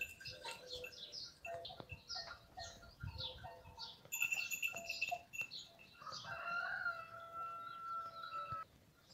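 Small birds chirping over and over in quick short chirps, with one longer drawn-out call lasting about two and a half seconds near the end.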